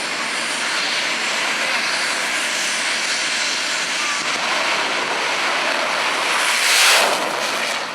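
Jet engine of a jet-powered drag racer running loud and steady, swelling to a louder blast about seven seconds in, then easing off.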